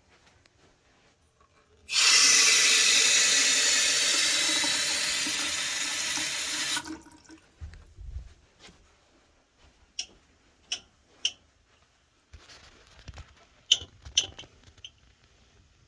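A water tap runs full for about five seconds and is shut off. A low thud follows, then a scattering of sharp ticks and clicks from the copper water pipes, which the owner cannot tell apart as copper pipe expansion or water hammer.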